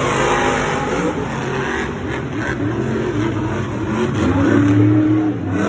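Monster truck engines revving hard during a race, the pitch swinging up and down as the drivers work the throttle, loudest about four to five seconds in.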